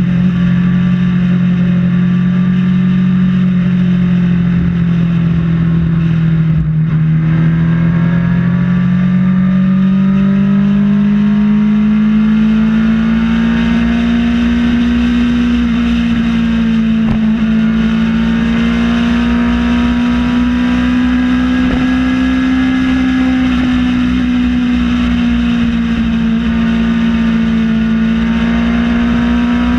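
Kawasaki Ninja ZX-6R inline-four engine running at steady cruising revs. Its note dips slightly, then rises gradually for several seconds and holds, with wind rushing over the on-bike camera.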